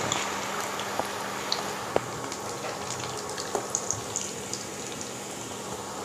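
Maggi-noodle-coated potato cutlets frying in hot oil in a pan: a steady sizzle with scattered crackles and pops.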